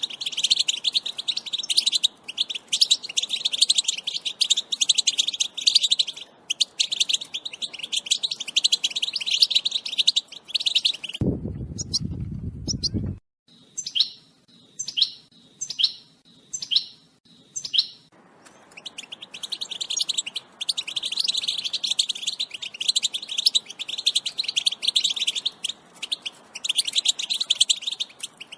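European goldfinch twittering in a fast, dense run of high chirps. About 11 s in, the twittering breaks off for a two-second low noise. A string of about six separate calls follows before the rapid twittering resumes.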